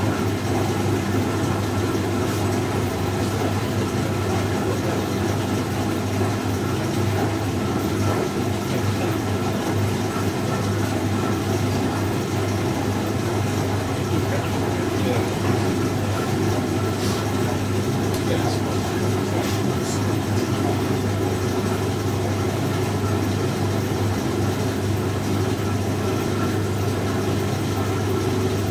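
1965 English Electric Liberator washing machine running, a steady motor hum with no change in speed.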